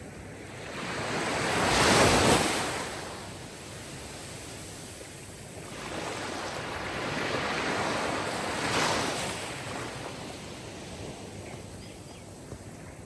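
Sea waves washing onto a shore: one wave swells and breaks about two seconds in, and a longer one builds from about six seconds and crests near nine.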